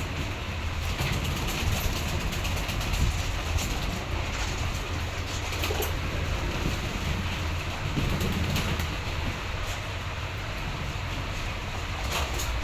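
Pigeons cooing over a steady low rumble, with scattered short clicks.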